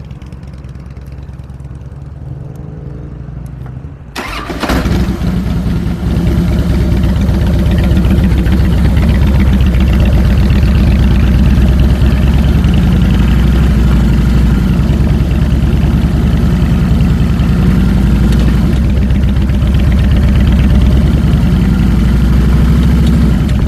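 A 2007 Harley-Davidson Fat Boy's Twin Cam 96 V-twin starting up about four seconds in with a sharp click, then running loudly with an even, rapid low pulsing.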